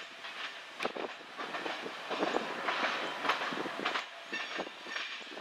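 Freight train tank cars rolling over the junction's switches and rail joints, the wheels clacking irregularly, with a faint high squeal at times.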